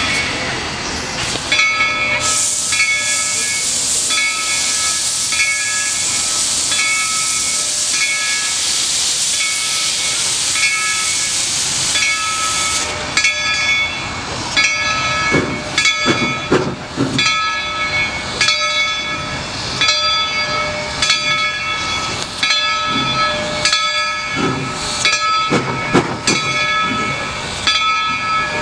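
Steam locomotive venting steam in a loud, steady hiss that cuts off suddenly about halfway through, while its bell rings steadily. After the hiss stops, the bell keeps ringing over irregular low chuffs or thumps.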